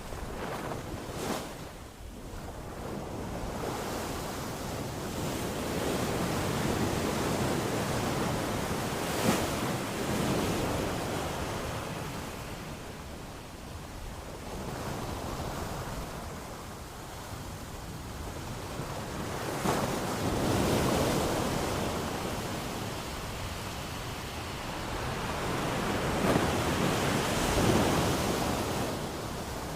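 Ocean waves breaking, the surf swelling and easing in slow surges, with the louder breaks coming every several seconds.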